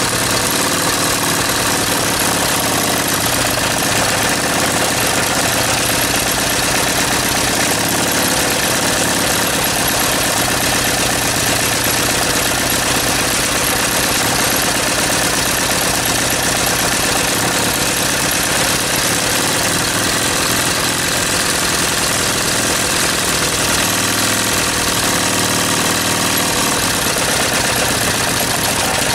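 Engine running steadily, with spacers fitted at its cylinder head.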